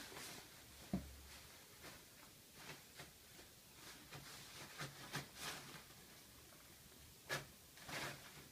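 Kittens playing with toilet paper: faint, scattered rustles and scratches of paper and paws, with a soft thump about a second in and a couple of louder rustles near the end.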